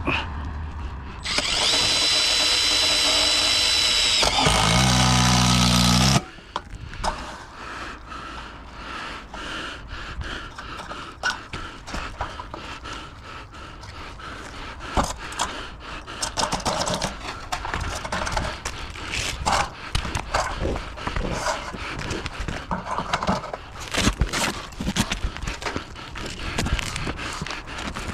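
A power tool runs loudly for about five seconds, with a high steady tone at first and a deeper sound in its last second and a half, then stops suddenly. Irregular clicks and knocks of hand work on the metal follow.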